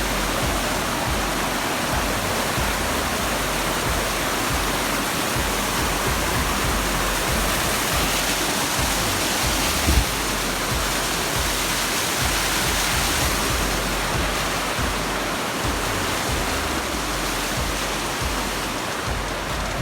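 Waterfall rushing steadily at close range. There is a single brief thump about halfway through.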